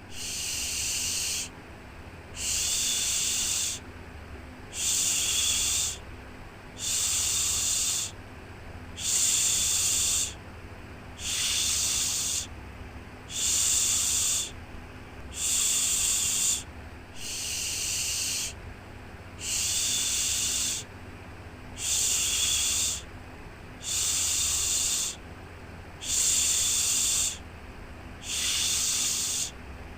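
Rhythmic "shhh" shushing to soothe a baby to sleep. Each hissing shush lasts about a second and a half and comes steadily every two seconds, about fifteen times, over a faint low hum.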